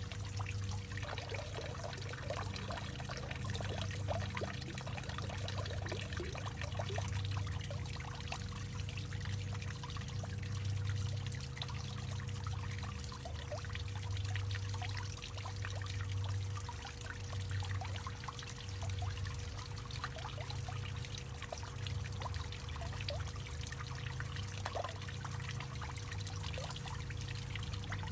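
Water trickling and pouring into a hollowed-out tree, with many small bubbling plinks over a low, pulsing hollow hum.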